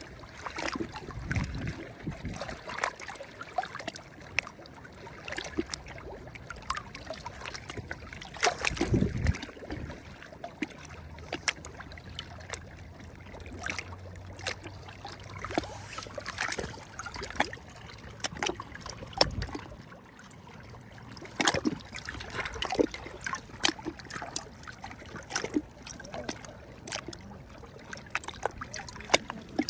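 Sea waves lapping and splashing at the shore in many short, irregular splashes, with water trickling back between them.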